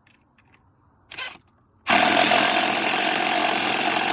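DeWalt 20V XR cordless impact driver hammering as it drives in, starting loudly about two seconds in and running on steadily, after a short burst of noise about a second in.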